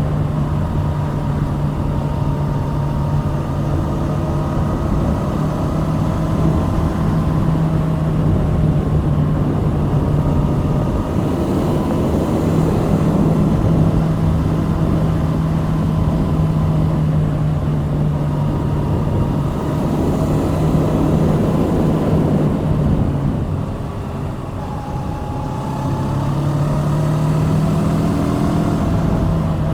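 Kawasaki Z650's 649 cc liquid-cooled parallel-twin engine running steadily under way. It eases off for a moment about three quarters of the way through, then the revs rise again.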